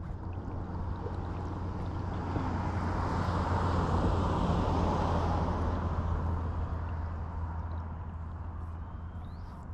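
A vehicle passing by: its noise swells to a peak about four seconds in, then fades, over a steady low rumble.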